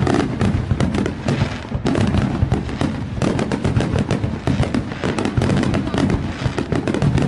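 Fireworks going off in a rapid, continuous run of bangs and crackles.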